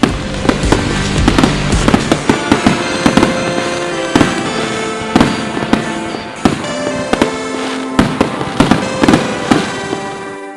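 Fireworks going off in quick succession, many sharp bangs over music. Near the end the bangs stop and a held chord of the music fades.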